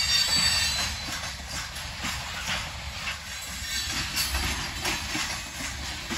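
Loaded coal hopper cars of a freight train rolling past, the wheels clacking over rail joints at irregular intervals over a steady rumble. A thin, high-pitched wheel squeal sounds near the start.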